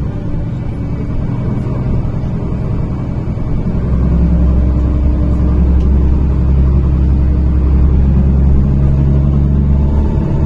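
NefAZ-5299 city bus heard from inside while under way: a steady low engine and drivetrain rumble. It rises in pitch and gets louder about four seconds in as the bus accelerates.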